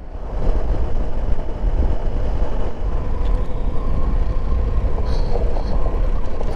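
Motorcycle riding along, its 2020 BMW R 1250 GS Adventure boxer-twin engine running under heavy low wind and road rumble. The sound fades in over the first half second and then stays steady.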